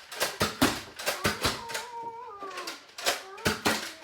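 Toy foam-dart blaster firing a series of sharp shots, often two or three in quick succession. In the middle there is a drawn-out, wavering high-pitched cry lasting about a second.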